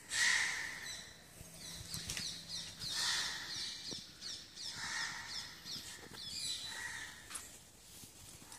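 Wild birds chirping: quick runs of short, high, falling notes, with lower calls in between.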